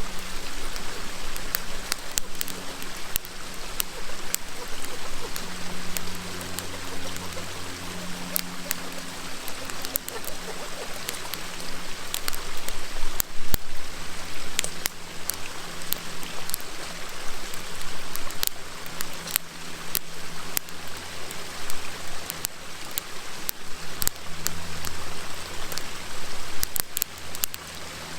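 Campfire wood crackling and popping in irregular sharp snaps over the steady rushing murmur of a river.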